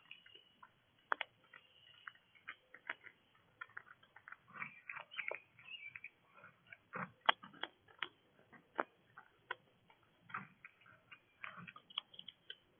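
Irregular clicks and taps at a bird feeder, short and sharp at an uneven pace: animals at the feeder pecking and handling seed.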